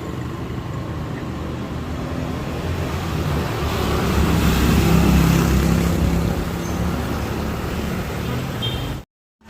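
Motor vehicle engine and road noise, a steady low rumble that grows louder around the middle as if a vehicle passes close. It cuts off abruptly near the end.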